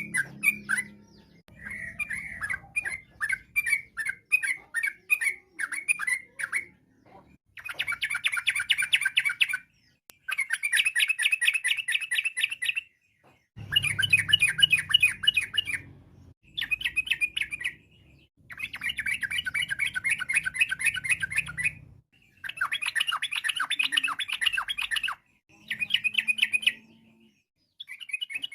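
Yellow-vented bulbul singing. About a dozen separate short notes come first, then a run of fast, chattering song bursts, each lasting one to three seconds, with brief pauses between them.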